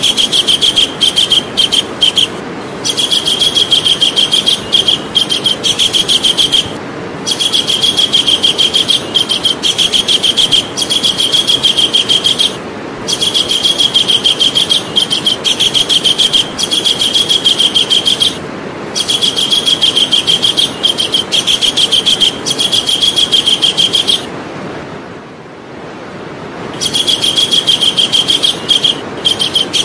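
Javan kingfisher calling: a fast, steady run of sharp, high notes in bouts of about four to six seconds. The bouts are broken by brief pauses, with a longer pause about three-quarters of the way through.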